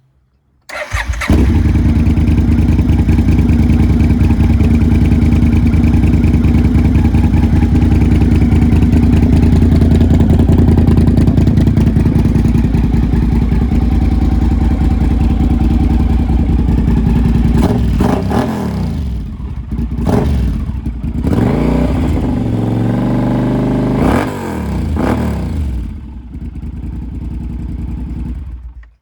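Yamaha TRX 850's parallel-twin engine running through an aftermarket Laser exhaust. It idles steadily at first, then is blipped several times, the pitch rising and falling with each rev, before settling and stopping near the end.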